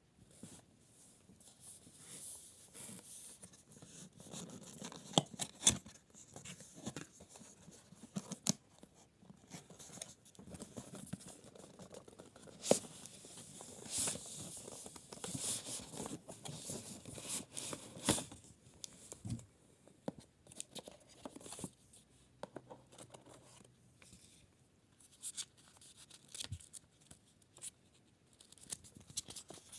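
Packaging being handled and torn open: irregular rustling and tearing, with scattered sharp clicks and knocks. The hair dryer is not running.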